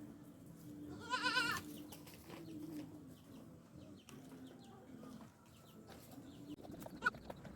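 A goat bleats once, a short quavering call about a second in, over a faint steady hum. A few light knocks come near the end.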